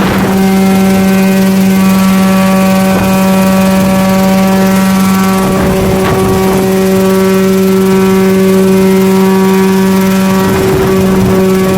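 Homemade coaxial helicopter running at a steady speed: a loud, unchanging hum with a fixed pitch and overtones, with a few short noisy gusts over it.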